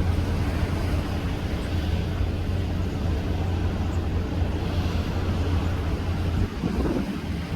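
Steady low rumble under a broad rushing noise: a boat under way in strong wind.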